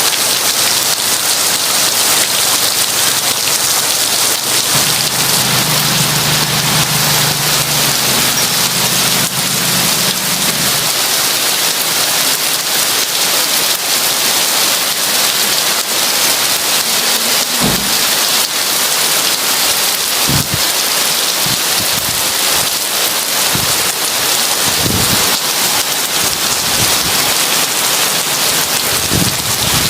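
Heavy rain falling steadily, an even hiss of drops on the window and roof. A low rumble of thunder runs from about five to eleven seconds in, and a few low thuds come in the second half.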